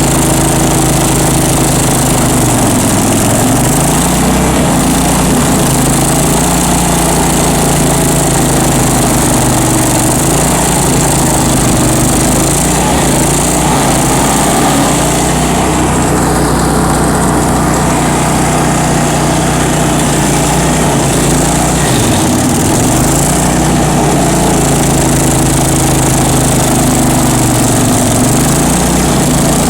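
Bandit ZT1844 stump grinder's engine running at high speed. Its pitch sags and recovers several times, the engine pulling down under load as the cutter wheel bites.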